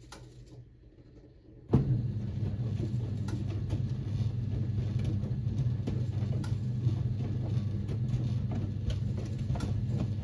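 Siemens WA4600 washing machine's drum motor starting up suddenly about two seconds in, then turning the drum through the wash: a steady motor hum with the irregular clicks and knocks of wet laundry tumbling.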